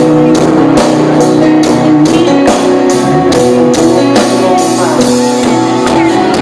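Live full country band playing the final bars of a song: guitars over drums keeping a steady beat of about two and a half hits a second. About four and a half seconds in the beat stops and the last chords ring out.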